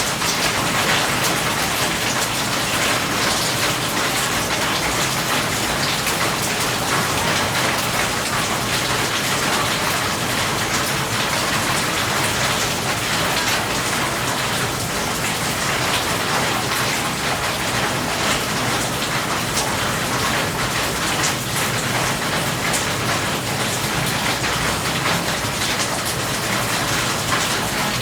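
Steady rain falling on a surface, a constant rush of water filled with the crisp ticks of individual drops.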